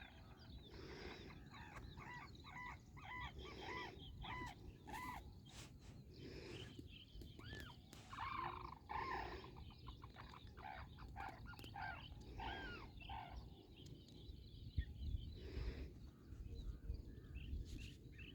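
Birds calling, many short arched calls in quick series, over a low rumble.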